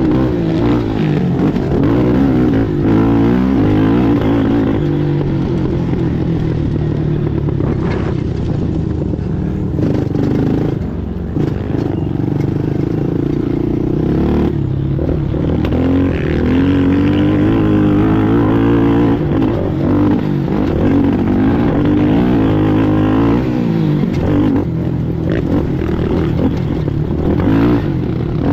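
ATV engine running hard at race pace, its pitch rising and falling continually as the throttle is worked, with brief dips in revs now and then.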